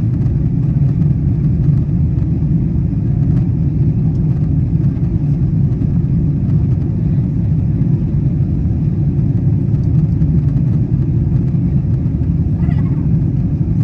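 Steady low rumble of a Boeing 777-200ER airliner cabin in flight, engine and airflow noise heard from an economy seat during the descent.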